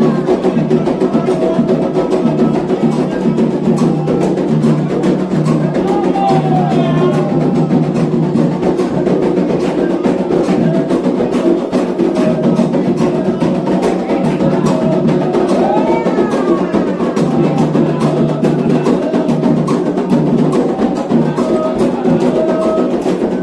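Candomblé ritual music: hand drums (atabaques) playing a dense, steady rhythm with sharp time-keeping strokes, and voices singing a chant over them.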